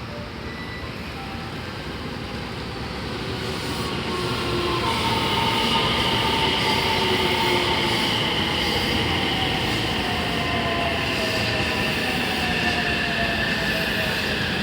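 JR West Series 227 electric train pulling into the platform, growing louder over the first few seconds. Its motor whine falls slowly in pitch as it brakes to a stop, over rolling rumble and a steady high tone.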